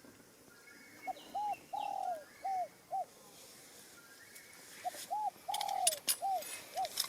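Pigeon cooing in two phrases, each a run of short arched coos with one longer falling coo in the middle. A few faint clicks come near the end.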